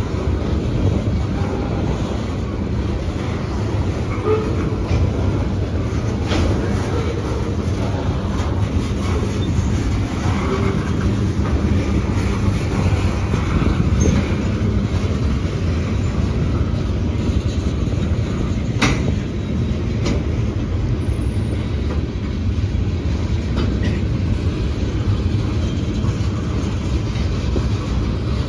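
Railroad cars rolling past: a steady, loud rumble of wheels on rail with a couple of sharp clanks, the louder one about two-thirds of the way through.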